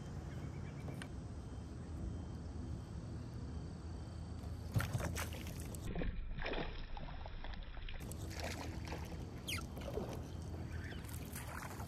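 Splashing and sloshing water as a small hooked bass thrashes at the surface beside a plastic kayak while it is reeled in. Short sharp splashes come about five seconds in and again near the end, over a steady low rumble.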